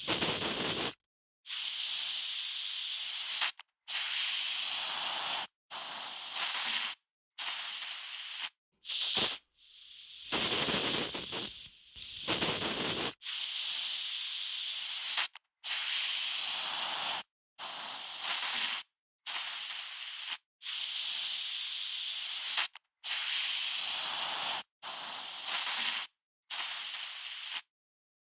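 Aerosol spray can being sprayed in a long series of hissing bursts, each lasting about one to two seconds, with short silent gaps between them.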